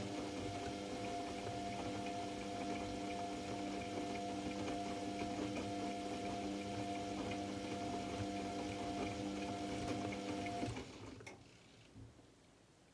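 AEG Lavamat L74810 washing machine with water rushing through it over a steady electrical hum. The rush and hum cut off about eleven seconds in, followed by a few sharp clicks.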